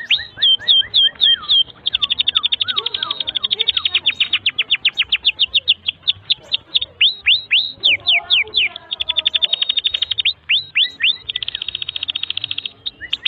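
Domestic canary in full, unbroken song: fast rattling trills alternate with runs of separate notes that swoop up and then fall in pitch, a few to several a second.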